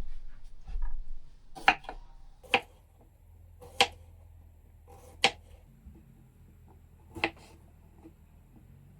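Knife cutting food against a cutting board: five sharp, separate knocks spaced about one to two seconds apart.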